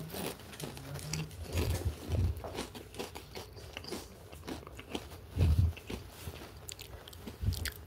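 Close-up chewing and crunching of crispy food, with irregular crunches and a few dull low thuds.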